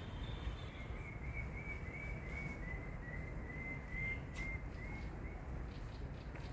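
A bird singing a long run of short, evenly repeated whistled notes, about three a second, that drift slightly lower in pitch before stopping near the end. Before it, a thin high steady trill fades out under a second in, over a constant low rumble.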